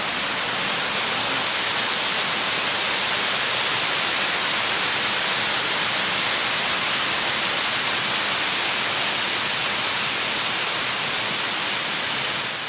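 Waterfall close by: a steady, loud rushing hiss, strongest in the high range, that drops away abruptly at the end.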